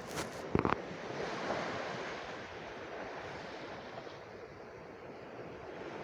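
Sea waves washing onto a shore, a steady rush that swells once and slowly ebbs. A few sharp clicks sound in the first second.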